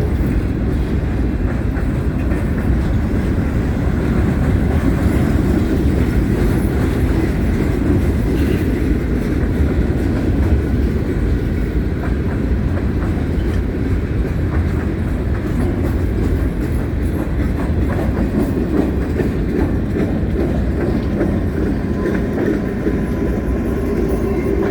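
Freight cars of a CSX freight train rolling past at close range: a steady, loud low rumble with wheels clicking over the rails.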